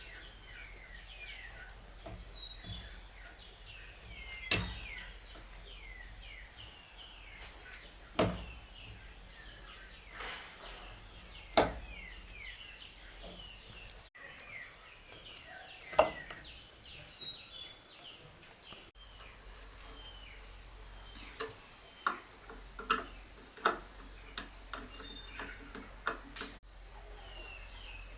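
Small birds chirping steadily in the background, with a sharp knock every few seconds and a quicker run of knocks near the end.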